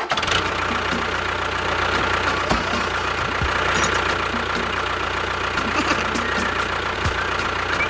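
Small motor of a DIY model tractor running steadily, with faint regular ticks.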